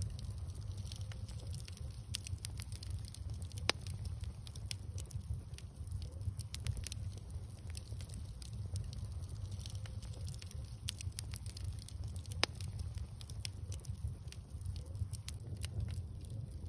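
Wood bonfire crackling with a steady run of small pops, two louder snaps about four seconds in and about twelve seconds in, over a steady low rumble.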